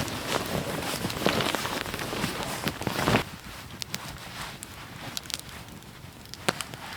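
Footsteps crunching through snow in a steady series, stopping about three seconds in; a few sharp, isolated clicks follow.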